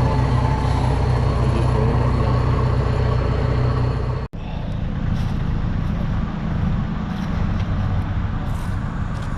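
Engine running steadily. There is an abrupt cut about four seconds in, after which a rougher, lower engine noise carries on.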